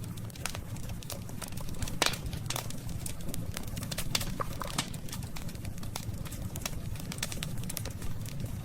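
Wood fire crackling, with sharp pops and snaps scattered irregularly over a steady low rumble; the loudest snap comes about two seconds in.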